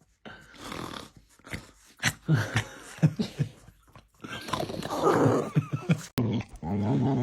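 A dog breathing noisily, with wheezy snorts and short clicks. After a sudden cut about six seconds in, a steady pitched sound takes over.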